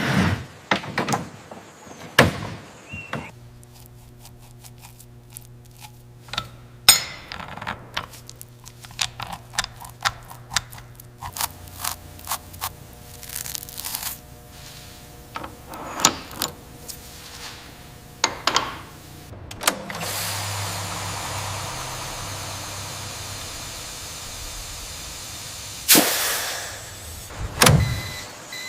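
Scattered clicks, knocks and clunks of work on metal parts. A steady hum runs for several seconds early on, and an even hiss lasts about six seconds later.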